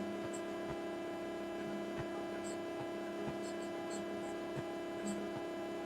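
A steady electrical hum made of several fixed tones, with a few faint clicks scattered through it.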